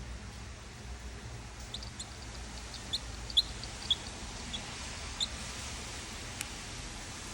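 A small bird giving a scattered series of short, high-pitched chirps, about a dozen over a few seconds, over a steady background hiss.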